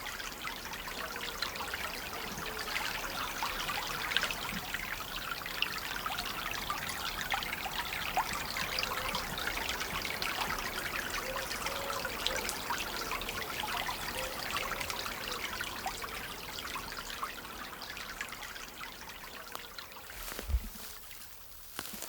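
Chalk stream water trickling steadily over its bed, a fine continuous splashing, with a brief low bump near the end.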